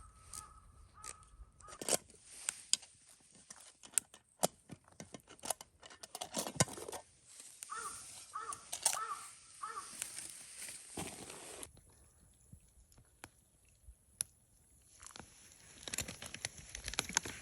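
A crow cawing, a run of about five short calls in the middle of the stretch, over scattered sharp clicks and knocks of close handling.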